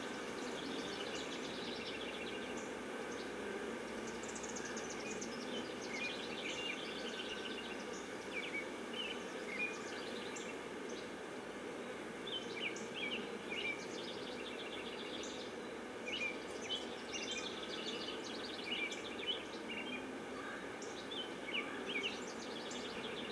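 Steady hum of honeybees swarming around an open hive, with small birds chirping and trilling many times over it.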